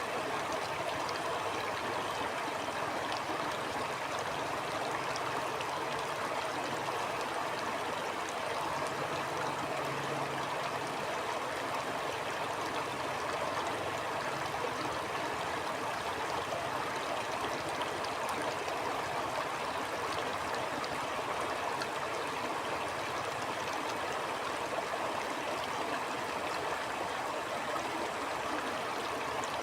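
Stream water flowing steadily over rocks, an even, unbroken rush of running water.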